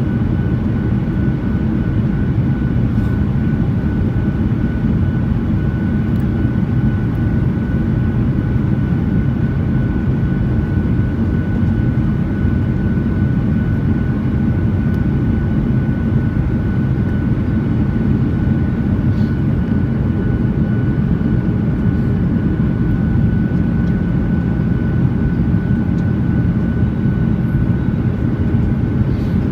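Aircraft cabin noise: a steady, loud rumble of engines and rushing air, with a faint, steady high tone above it.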